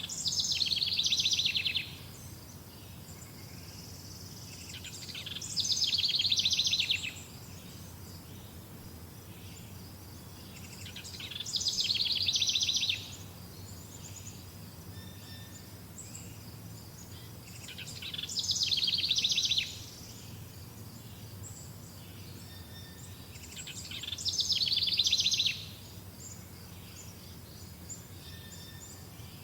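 A songbird repeating the same song about every six seconds, five times: each phrase is a rapid trill of fast-repeated notes lasting one and a half to two seconds, swelling in loudness and stopping abruptly. Faint insects chirp steadily underneath.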